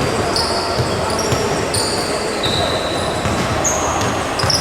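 Basketball game sounds: sneakers squeaking sharply on the court over and over, a ball bouncing, and steady crowd chatter underneath.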